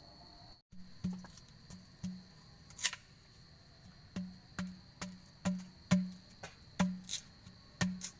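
Knife chopping on a wooden cutting board: irregular sharp knocks, roughly two a second, each with a short dull thud. Insects chirr steadily behind them.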